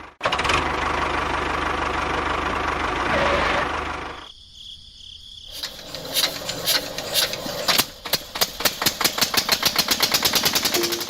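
A small engine running steadily; about four seconds in it drops away, then comes back as a fast, even knocking of about four or five beats a second.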